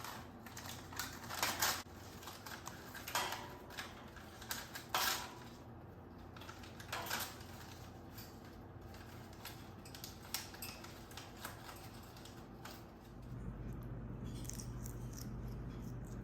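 Scattered light clinks and knocks of small hard objects, like parrots handling toys or dishes. A steady low hum comes up near the end.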